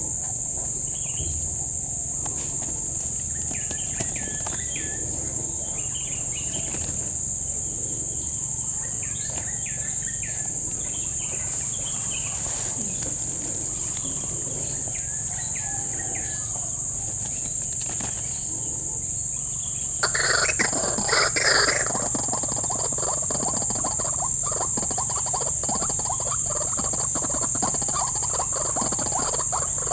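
A steady high-pitched insect drone, with scattered bird calls over it. A louder burst of calling comes about twenty seconds in and lasts about two seconds, followed by busier chattering.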